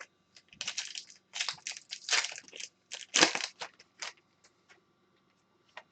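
Trading card packs and cards being handled: a string of short crinkling, rustling bursts of wrapper and card stock, thinning out after about four seconds.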